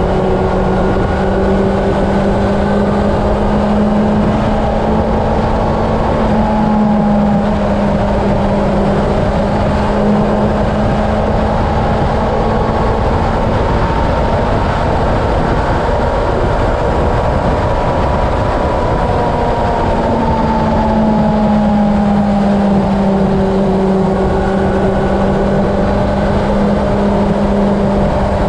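Honda CB750 inline-four engine running steadily at highway cruising speed, its note rising and dipping slightly, under heavy wind rush on the helmet-mounted camera microphone.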